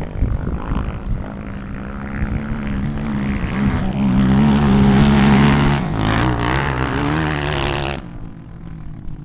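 Engines of 250 cc off-road racing machines revving hard, their pitch rising and falling, growing louder to a peak about five seconds in, then dropping away suddenly near the end.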